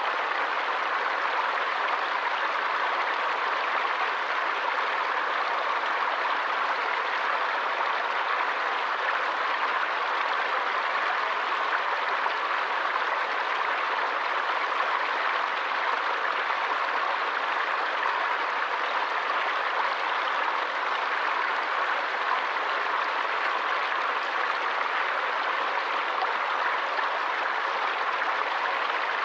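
A forest stream's running water, rushing steadily with no change in level.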